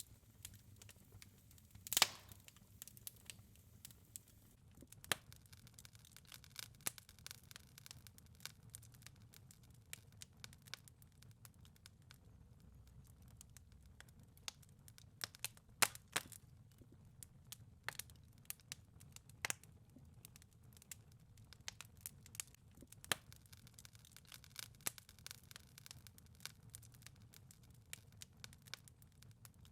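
Wood fire in a fireplace crackling, with scattered sharp pops over a soft low rumble. The loudest pop comes about two seconds in.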